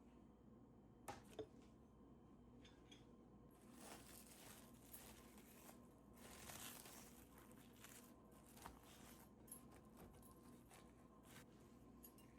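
Near silence with faint handling sounds: two light clicks about a second in, soft rustling, and a few more scattered clicks.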